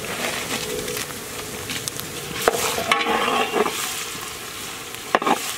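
Chopped onions, ginger-garlic and dried red chilies sizzling as they fry in oil in a large metal pot, a steady hiss with a few sharp clicks.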